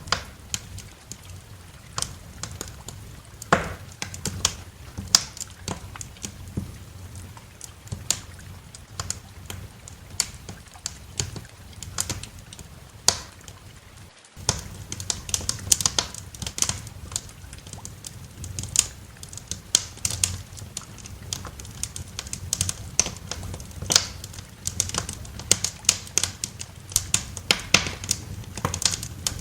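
Wood fire in a fireplace crackling, with irregular sharp pops over a low steady rumble. The sound cuts out for a split second about 14 seconds in.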